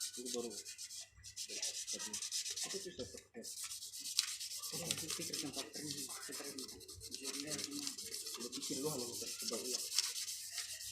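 Sandpaper rubbed back and forth over a surface in quick, uneven strokes, as in sanding to prepare a surface for painting.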